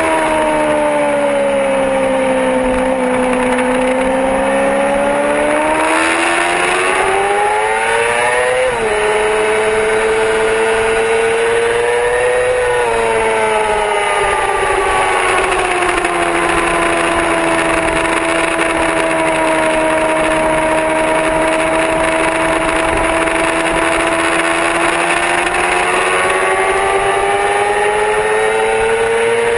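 Yamaha R6 inline-four sport-bike engine at speed on a race track, its revs falling and rising with throttle. There is a sudden drop in pitch about nine seconds in, like a quick upshift, then a climb, a long steady stretch at lower revs, and a rise again near the end, all over a steady hiss.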